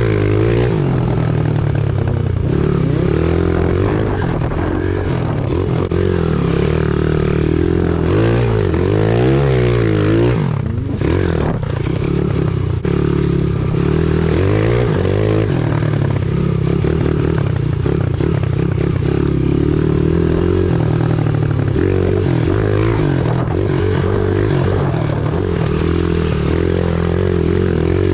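Pit bike engine being ridden hard, revving up and easing off over and over, with one brief drop in revs about ten seconds in.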